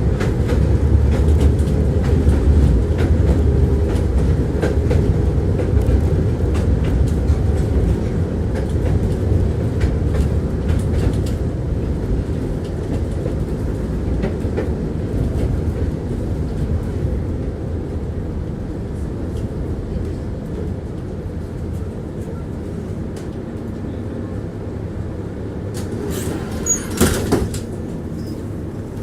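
Tram rolling along its rails with a steady low rumble, its wheels clicking over rail joints. The sound eases off through the second half as it slows, and a brief louder clatter comes near the end.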